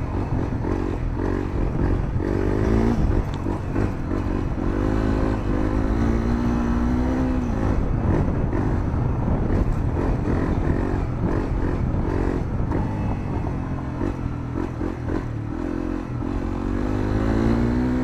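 Honda CRF250L single-cylinder four-stroke engine, breathing through a Moriwaki aftermarket muffler, revving up and down as the throttle is opened and closed while riding. Its pitch climbs in several long pulls, about two seconds in, from about five to seven seconds, and again near the end.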